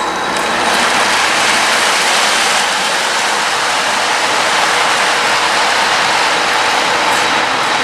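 Train running by on the track, a loud, steady noise of wheels on rails.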